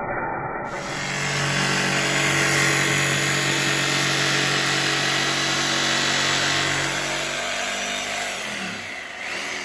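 Power tool running steadily on the steel of a grain box, then switched off, its pitch falling as it winds down about eight seconds in.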